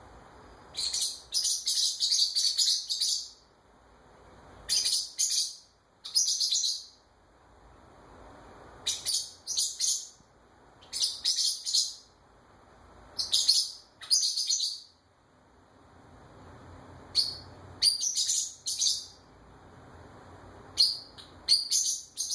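Pet bird chirping in about eight clusters of quick, high chirps, a second or two apart, calling back to a wren singing outside.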